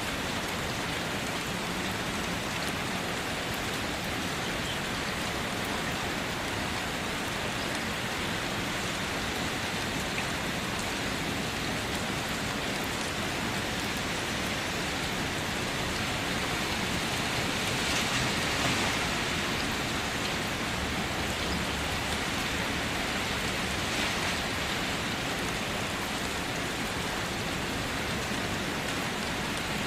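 Steady rainfall pattering on surfaces, an even hiss of drops, swelling slightly louder for a moment about two-thirds of the way through.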